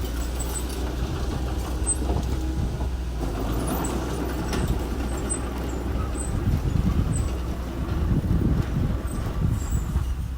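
Engine of earthmoving machinery running steadily, with a low hum and rough rumbling that swells a little partway through.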